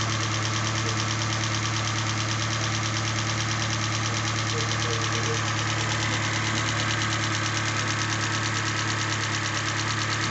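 Hyundai i40's 2.0 G4NA four-cylinder petrol engine idling steadily on its first start after a full overhaul, with a fast, even ticking from the fuel injectors. It runs without any knock or other abnormal noise: the hydraulic lifters have filled with oil.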